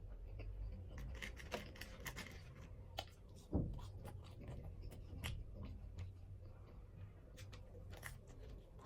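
Close-miked eating: chewing with scattered crisp crunches and small wet mouth clicks, and one louder thump about three and a half seconds in.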